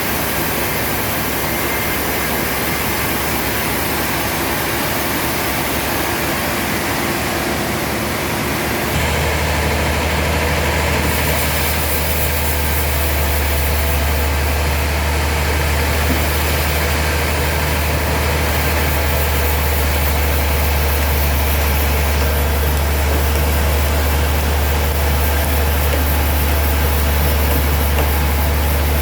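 Sawmill machinery running steadily; about nine seconds in, a deeper, louder hum sets in and holds.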